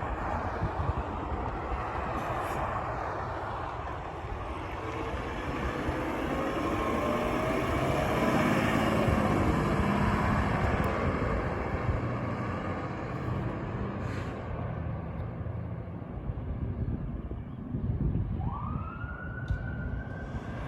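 Fire engine responding with its siren going over engine and road rumble, growing loudest about halfway through as it passes. Near the end a siren winds up sharply in pitch and holds high.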